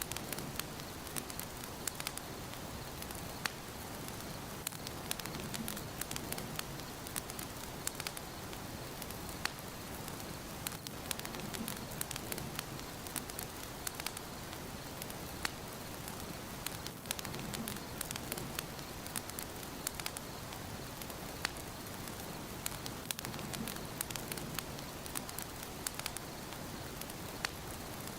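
Wood fire burning in a fireplace, crackling with frequent sharp, irregular pops over a steady soft hiss.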